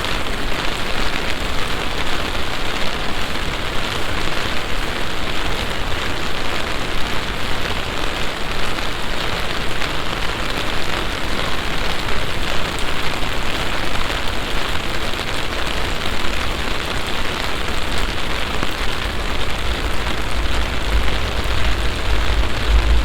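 Heavy summer downpour, a sudden passing shower, hissing steadily on the pavement and surfaces around. A deep low rumble builds near the end.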